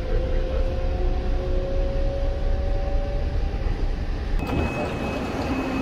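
Ride inside a moving electric train carriage: a steady low rumble of the wheels on the track, with a motor whine slowly rising in pitch. About four seconds in, the sound changes abruptly to a lighter rushing with a faint high tone.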